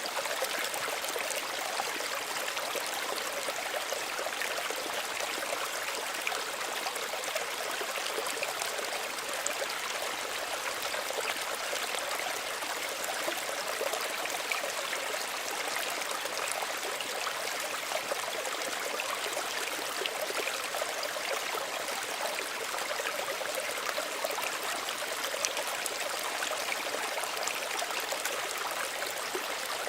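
Small stream of water running and trickling steadily, a continuous splashing babble with many fine droplet sounds.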